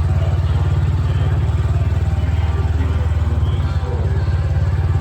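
Diesel truck engine running steadily nearby, a deep, rapidly pulsing rumble.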